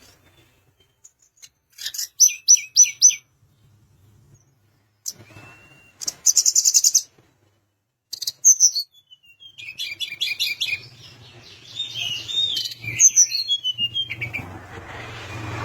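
Tledekan gunung (a shortwing) singing: short bursts of rapid, high repeated notes separated by pauses, then a longer jumbled twittering phrase near the end.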